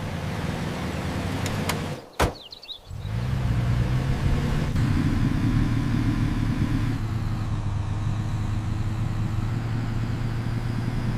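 Van engine running steadily on the road. A sharp click and a brief drop in the sound come about two seconds in.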